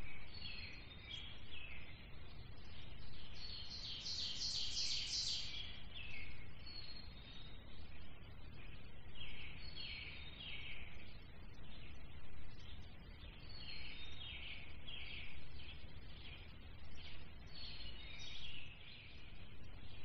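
Songbirds singing in woodland: short phrases of quick chirping notes repeating every second or two, the loudest and highest-pitched about four to five seconds in, over a low steady background rumble.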